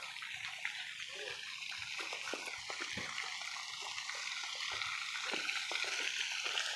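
Steady trickle and splash of running water, with many small clicks and taps scattered through it.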